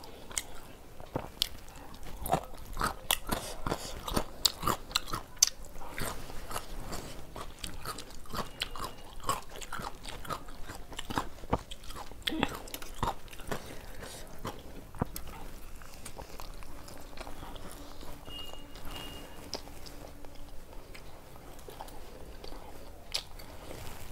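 A person chewing and biting food close to the microphone, with many wet mouth clicks and smacks, eating mutton curry and tandoori roti by hand. The clicks come thick and fast over the first half and thin out later.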